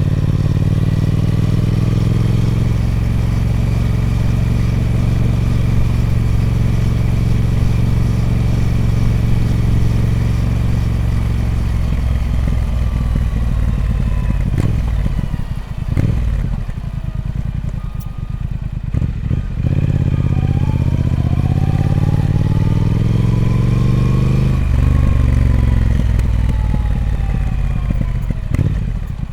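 Triumph Speed Twin 1200's parallel-twin engine through its stock exhaust. It runs at steady revs, then drops off about halfway with a few sharp clicks. The revs climb again and fall away near the end.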